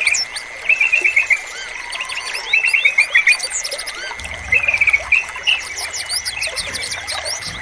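Yellow-vented bulbul (trucukan) singing in short, quick runs of notes, three phrases about two seconds apart, over high twittering of other small birds and a steady high tone.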